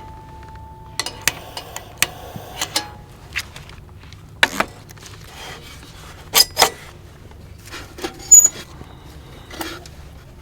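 Camp coffee gear being handled: irregular sharp clinks and knocks of metal and crockery, roughly one a second, with one bright ringing clink about eight seconds in.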